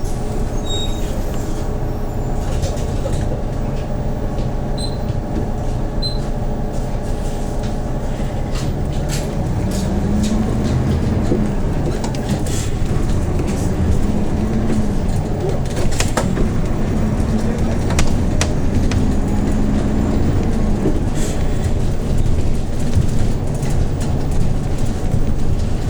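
Hyundai New Super Aero City bus's CNG engine heard from inside the cabin, running steadily under way. Its pitch rises and falls several times in the middle of the stretch as the bus accelerates, with a few sharp clicks and rattles from the cabin.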